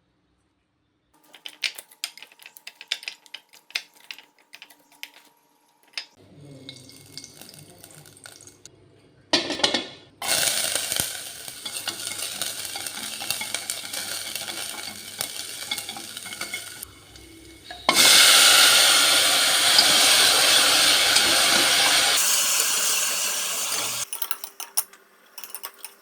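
Kitchen cooking sounds: utensils clinking against a pot or dish, then a long steady hiss lasting over ten seconds that is loudest in the middle and fades away, with more clinks near the end.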